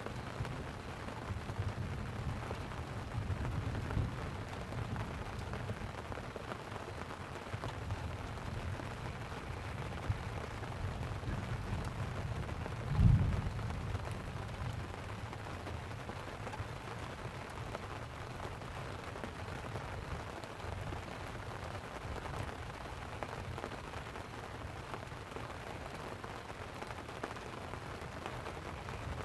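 Light rain falling steadily on a tent, with low rumbles of distant thunder in the first half and one sudden, deep thunder crack about thirteen seconds in.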